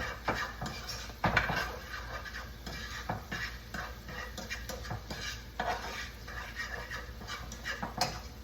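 A spoon stirring and scraping in a pot of Alfredo sauce with peppers and spinach, with irregular clinks against the pot, the loudest about a second in.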